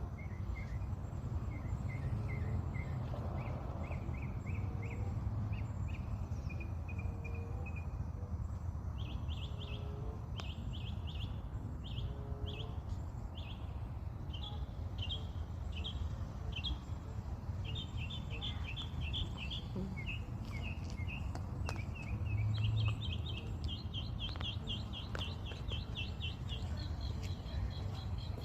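A mockingbird singing: short notes repeated in quick runs, each phrase repeated several times before it switches to a new one, with the phrases moving higher in pitch later on. A steady low rumble of background noise runs underneath.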